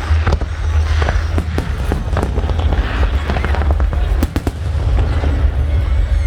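Aerial fireworks bursting in quick succession: a string of sharp bangs and crackles, about two or three a second, over a continuous low rumble.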